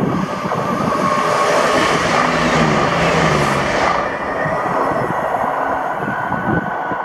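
ScotRail diesel passenger train passing at speed: a rising rush of engine and wheels that peaks about three seconds in, the engine note dropping in pitch as it goes by, then the sound trailing off as the train recedes.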